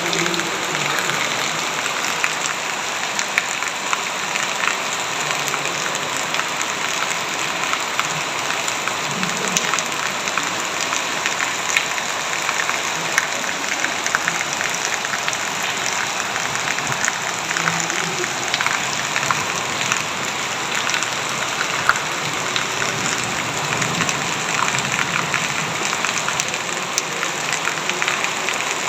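Heavy rain falling steadily, a dense even patter with individual drops ticking sharply on a nearby surface now and then.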